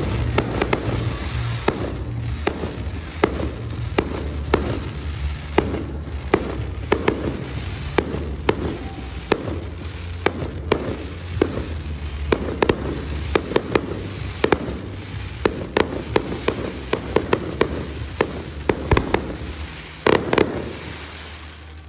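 Fireworks display: many sharp pops, bangs and crackles in quick, uneven succession, thinning out near the end.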